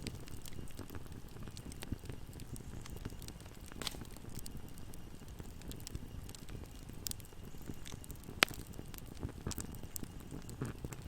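Fire burning in a fireplace: a low steady rumble of flames with scattered crackles and pops, the sharpest pop a little past eight seconds in.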